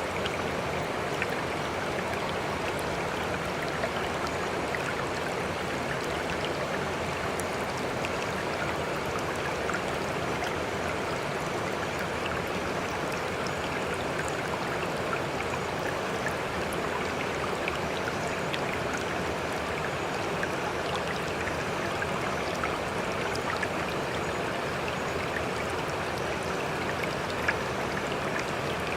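Sea water rushing and trickling in a steady, even wash, with small splashing clicks scattered through it and no distinct wave swells.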